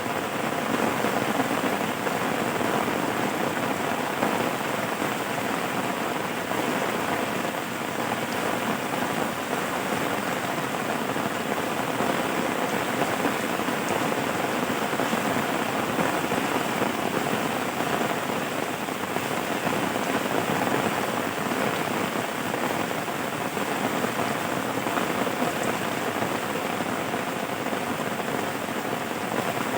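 Steady rain falling, an even hiss that keeps up without a break or change.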